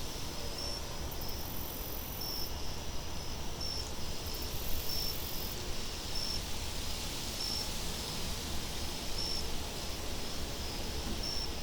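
Wind ambience: a steady hiss with a low rumble, with crickets chirping in short high chirps about once a second.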